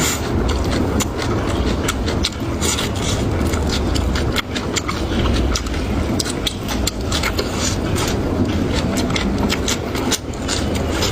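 Close-miked chewing and crunching of food, with many short crisp clicks over a steady low rumble.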